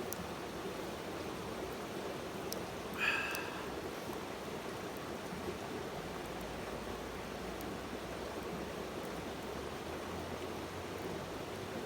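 Steady rushing outdoor noise, with a few faint ticks and one brief high-pitched chirp about three seconds in.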